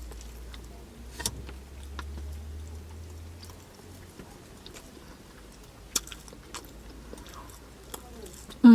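Close-up eating sounds: chewing and biting of jerk chicken and festival, with scattered small clicks and a low hum that fades out about three and a half seconds in. Near the end there is a short, loud voiced "mm" that falls in pitch.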